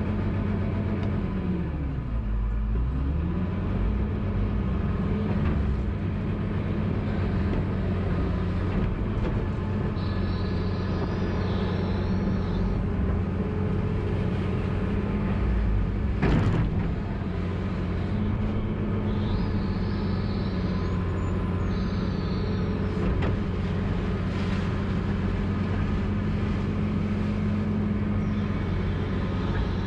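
Farm tractor engine running steadily, its pitch dipping about two seconds in and coming straight back up. A single sharp knock sounds about halfway through.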